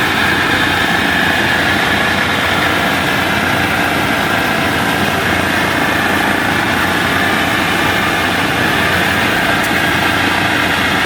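Combine harvester's diesel engine running steadily as the machine drives along a road, heard from a vehicle following close behind.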